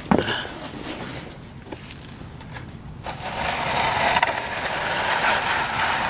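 Used engine oil being poured into a bucket: a steady splashing pour that starts about three seconds in, after a knock at the start.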